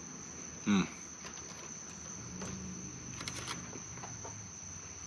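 Insects trilling steadily at one high pitch, with a short voiced sound about three quarters of a second in.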